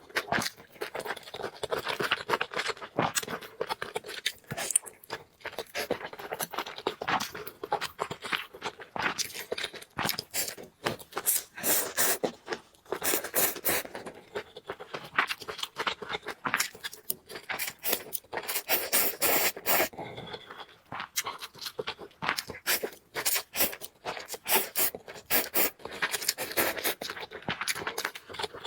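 Eating sounds of a person eating noodles close to the microphone: a dense, irregular run of wet chewing, mouth smacks and scraping sounds.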